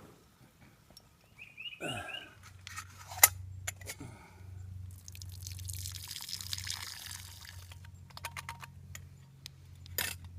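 A loud bird gives a quick run of rising chirps about two seconds in. After it come a low steady hum, a sharp click, a stretch of hiss and scattered small clicks and taps.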